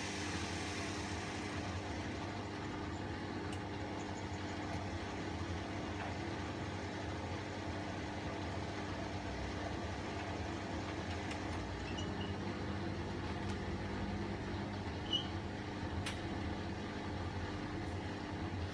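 Bosch Classixx 1200 Express washing machine (WAE24162GB) at the end of its rinse-and-spin cycle, just after the spin has wound down: a steady low hum with a few light clicks while the drain pump is still pumping out. A second, slightly lower tone joins about two-thirds of the way through.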